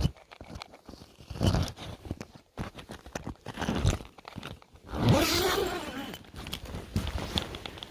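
Footsteps crunching through deep, fresh snow in uneven steps. About five seconds in comes a longer, louder scraping sound.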